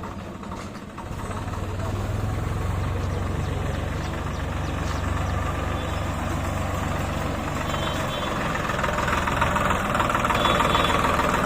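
Swaraj 744 FE tractor's diesel engine running steadily under load. It gets louder about a second in and a little louder again near the end.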